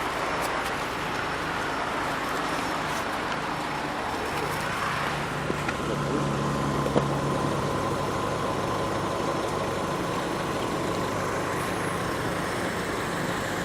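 Steady vehicle and traffic noise, with a low engine drone and a faint whine swelling about five seconds in and fading out near the end.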